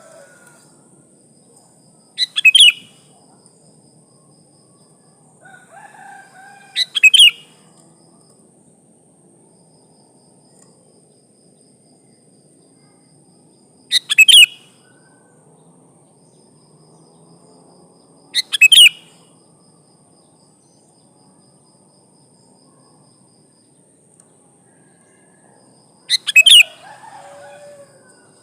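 Female sooty-headed bulbul giving five short, sharp calls spaced several seconds apart, the call a hen uses to summon males. A faint steady high-pitched whine runs underneath, with some fainter lower bird calls.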